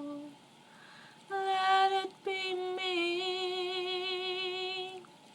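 A woman singing unaccompanied, the closing phrase of a slow love song. After a short pause she sings a short note, then a long held final note with vibrato that ends about five seconds in.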